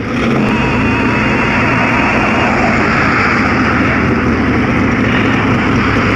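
1970 Plymouth Barracuda's engine running steadily as the car rolls slowly forward at low speed.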